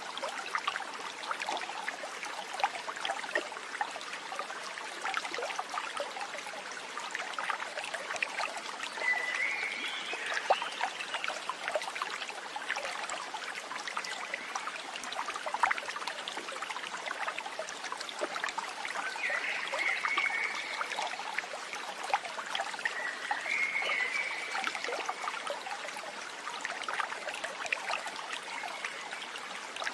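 Running water trickling and splashing steadily, like a small stream, with a few short high chirps a few times over it.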